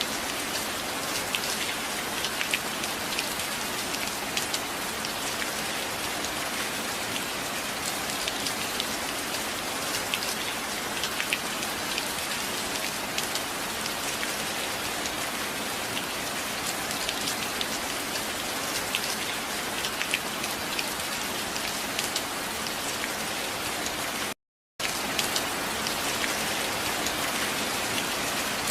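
Steady rain falling, an even hiss dotted with many close individual drops ticking. About 24 seconds in, the sound cuts out completely for about half a second, then comes back unchanged.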